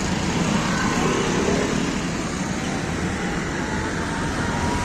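Steady road traffic noise: engines and tyres of cars on a busy road.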